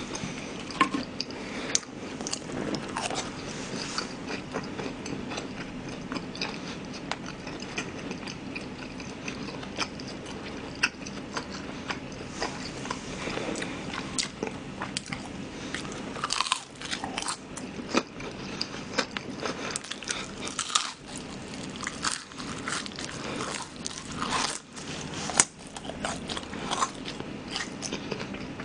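Close-miked chewing and biting of battered sweet-and-sour shrimp, with a steady run of irregular crunches and clicks. The glutinous-rice batter is less crispy than usual, which the eater puts down to the damp weather.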